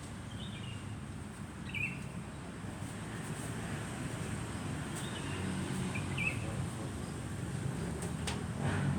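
A few short bird chirps, in two pairs, over a steady low rumble that grows louder near the end.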